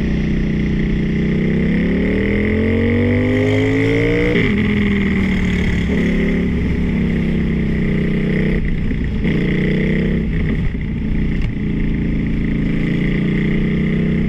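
Motorcycle engine under way, its pitch climbing for about three seconds and then dropping sharply at a gear change. It then runs on at a steadier speed, with a few shorter rises and dips.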